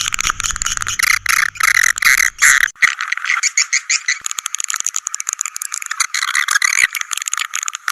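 Recorded edible-nest swiftlet lure call: dense, high-pitched twittering made of rapid clicking chirps in quick rattling trains. A faint low hum sits under the first few seconds and stops.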